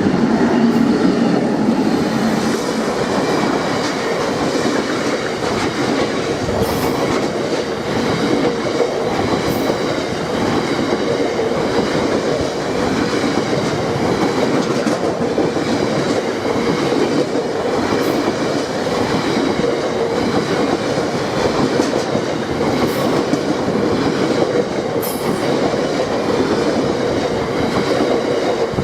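Slow freight train of oil tank wagons rolling past a level crossing: a steady loud rumble of wheels on rail with a faint steady ringing tone, and sharp clicks from the wheels every few seconds.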